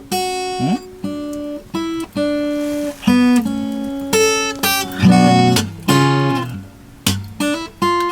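Acoustic guitar played by hand: single notes and chords picked and strummed, each ringing and fading, with one note sliding up about half a second in.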